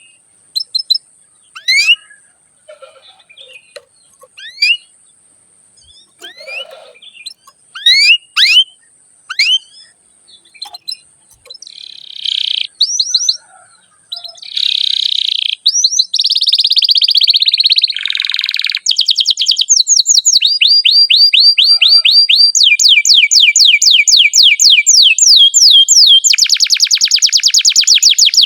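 Domestic canary singing: scattered short rising chirps for the first ten seconds or so, then, about halfway in, a continuous song of fast repeated trills and rolls.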